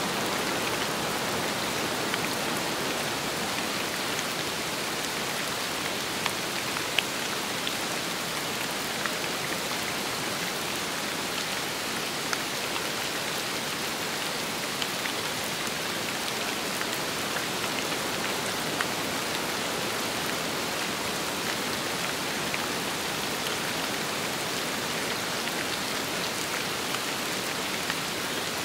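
Steady rain falling, a constant patter with many single drops ticking out sharply here and there.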